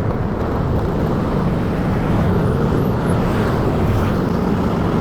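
Motorcycle on the move: a steady rush of wind and engine and road noise.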